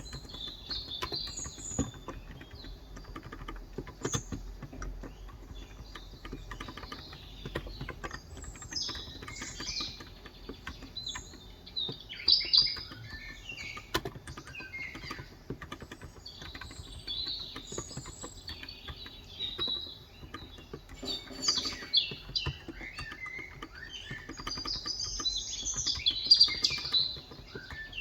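Songbirds chirping and twittering, in bouts that are loudest about halfway through and again near the end, over the steady soft clatter of typing on an electro-capacitive (Topre-style) keyboard with light 35 g switches.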